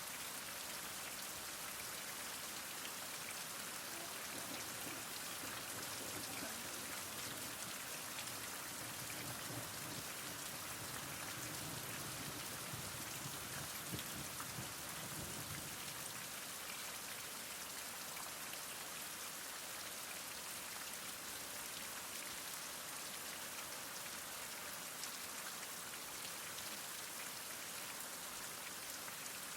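Heavy rain falling steadily, an even hiss of many drops on surfaces, with no thunder.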